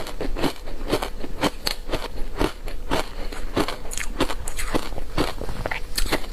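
A person biting and crunching matcha green tea powder ice close to the microphone: sharp, crackly crunches come in a quick, irregular run of about three a second.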